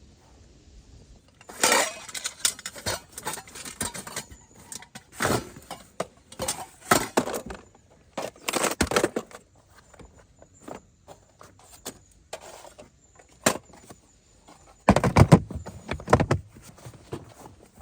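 Irregular clattering and rustling of things being handled: clusters of sharp knocks and clinks, the loudest near the end.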